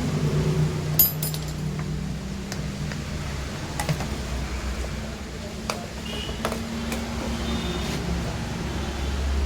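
Metal tools and engine parts clinking as a motorcycle engine is taken apart: a handful of sharp, scattered clinks, the loudest about a second in, over a steady low hum.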